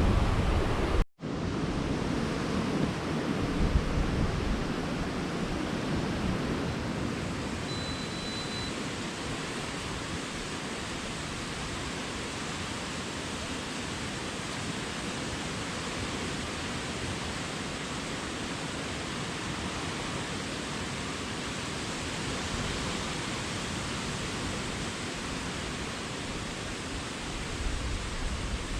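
Waterfall: a steady, even rush of falling water, broken by a sudden cut about a second in. A short, faint high tone sounds once about eight seconds in.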